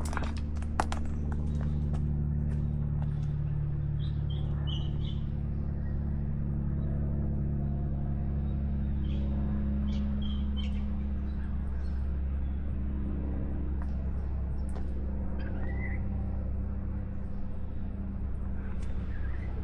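Steady low mechanical hum that holds at one pitch throughout. A few short bird chirps come in about four, ten and sixteen seconds in, along with scattered light clicks.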